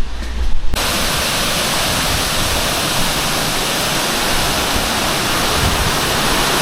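Amicalola Falls waterfall: a steady, loud rush of falling water that cuts in abruptly about a second in, after a low rumble.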